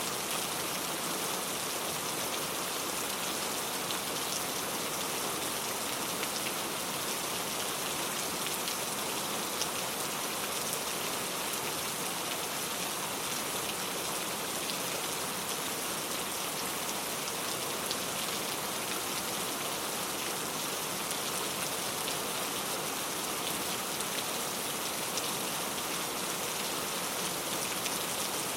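Steady rain falling, a constant even hiss with scattered small drop ticks.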